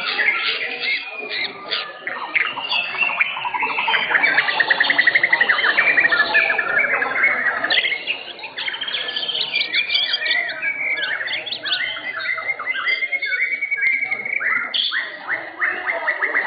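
White-rumped shamas (murai batu) singing in a songbird contest. The song is a dense, overlapping stream of quick chirps, whistled phrases and fast rattling trills, with loud rapid trills a few seconds in and again near the end.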